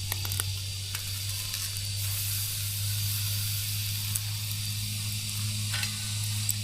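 A steady high hiss with a few scattered ticks and crackles, over a steady low hum.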